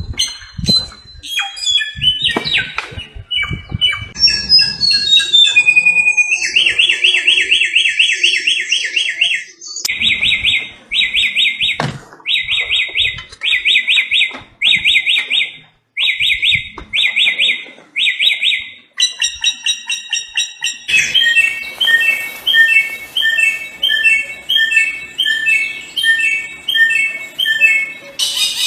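Samyong bird singing. It opens with a varied run of chirps and a stepwise descending string of whistles, then sings a series of quick, buzzy repeated phrases with short pauses, and in the last third a fast, even string of repeated notes.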